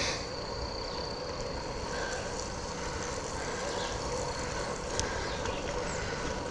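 Steady riding noise from a Specialized Sirrus X hybrid bicycle rolling on a wet path, with a thin high tone over it that stops about five seconds in and a sharp click about five seconds in.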